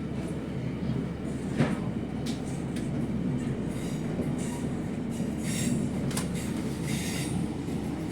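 Class 156 diesel multiple unit running along the track: a steady rumble with one sharp knock about a second and a half in, and brief high wheel squeals around the middle and near the end.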